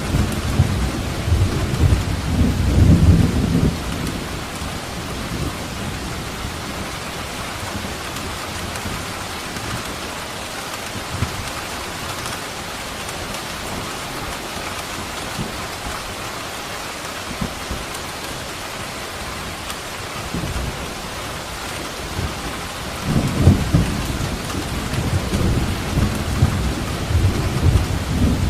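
Steady rain falling with thunder rumbling low, once in the first few seconds and again for several seconds near the end.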